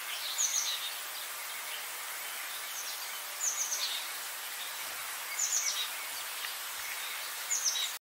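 A bird calling in short clusters of high notes that fall in pitch, five times, over a steady high hiss of outdoor ambience.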